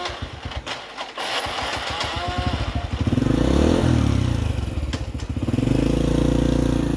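An old motorbike's small petrol engine catches and runs, revved up briefly about three seconds in, then settles to a steady run.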